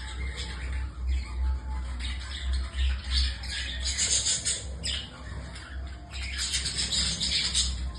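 A flock of budgerigars chattering and squawking, many calls overlapping, with louder stretches of squawking about halfway through and near the end. A steady low rumble runs underneath.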